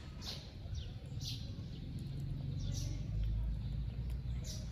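Birds chirping now and then, short high notes about once a second, over a steady low rumble that grows louder through the middle.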